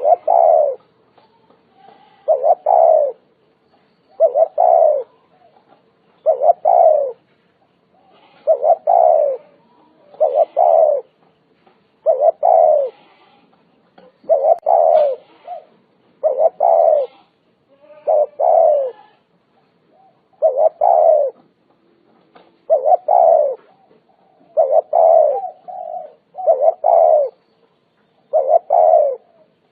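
Spotted dove cooing: short phrases of a few low, hooting coos, repeated steadily about every two seconds.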